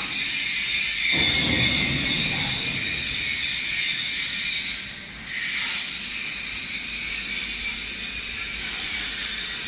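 Welding arc on a longitudinal seam welding machine, hissing steadily on stainless steel, with a brief dip about halfway through.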